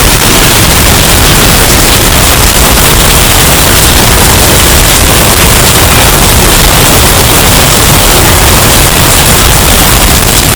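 Hurricane wind sound effect, bass boosted and heavily distorted into a steady, very loud wall of noise with no let-up.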